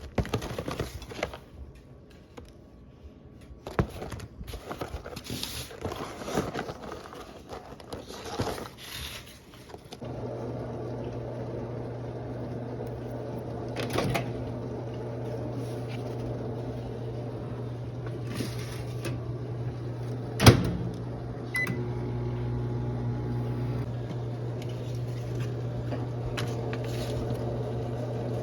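Handling clicks and rustles, then from about ten seconds in a microwave oven running with a steady hum, with one sharp click partway through the hum.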